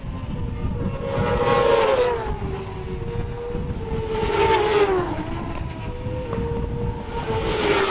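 Racing motorcycles passing at speed one after another, each engine note dropping in pitch as it goes by: three passes, about a second and a half in, halfway through and at the end, with more bikes running further off.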